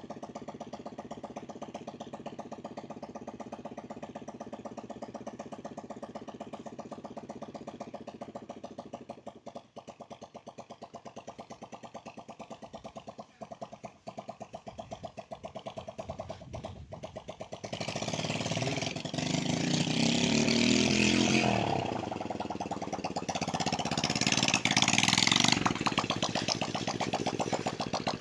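Motorcycle engine idling with an even pulse, dipping briefly twice. About two-thirds of the way in it turns much louder, with a rushing noise over the engine, as the bike is revved and ridden.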